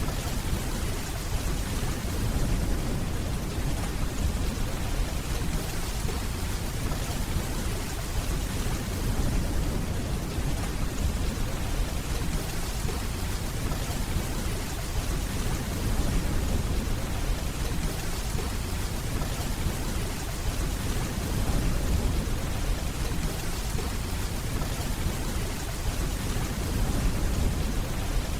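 Steady rainfall, with a low rumble of distant thunder underneath.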